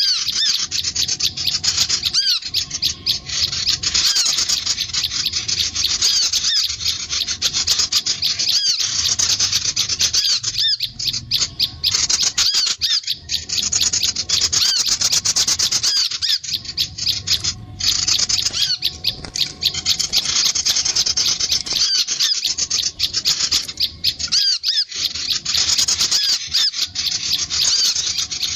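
High, rapid chattering of a small songbird, many short notes a second in a continuous run, broken by a few brief pauses.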